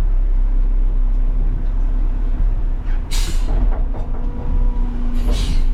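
Garbage truck's diesel engine idling with a steady low rumble, cut by two short bursts of air hiss about three seconds in and again near the end, typical of the truck's air brakes or air system venting.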